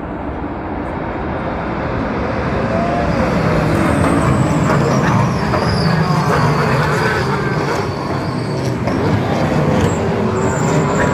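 GT race car engines running at the track. The noise grows louder over the first four seconds, then holds steady, with shifting engine pitches.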